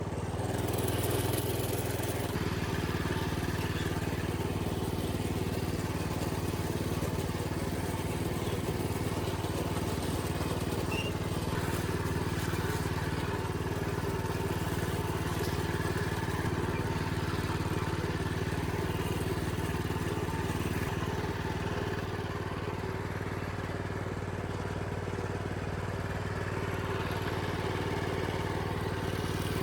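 Minibike's small engine running steadily, its note shifting slightly about two seconds in.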